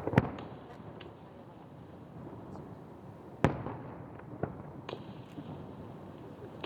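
Fireworks shells bursting: two sharp bangs at the start, another loud bang about three and a half seconds in, then a few smaller reports, each trailing off in a rumble.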